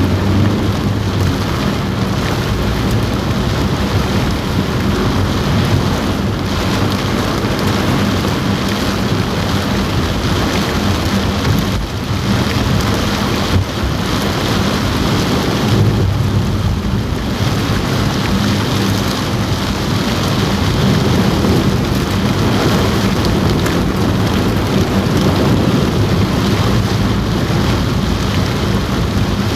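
Heavy rain drumming on a car roof, heard from inside the car as a dense, steady hiss with a constant low hum underneath.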